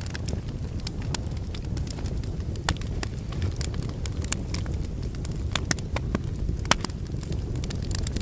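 Wood logs burning in a fireplace: a steady low rumble of flames with frequent irregular crackles and pops, two of them sharper and louder, about two and a half and six and a half seconds in.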